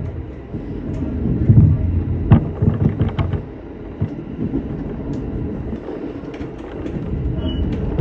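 Shinano Railway SR1-series electric train running on the line: a low rumble of wheels on rail with scattered sharp clicks. The rumble is loud at first and eases off about three and a half seconds in.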